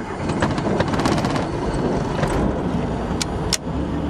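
Robinson R44 Raven II's six-cylinder Lycoming IO-540 engine being started: the start begins with a run of rapid clicks, then turns into steady mechanical noise. Two sharp clicks come near the end, after which it settles into a steady running tone.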